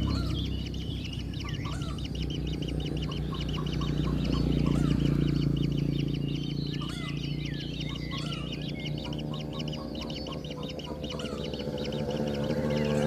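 Birds calling: a fast, steady high chirring trill with short rising chirps mixed in, over a low steady hum.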